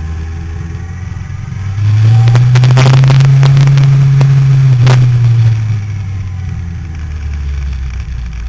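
Motorcycle engine running at a low, steady note, then rising sharply in revs and loudness about two seconds in, holding there with crackling clicks for about three and a half seconds, and dropping back to the lower note.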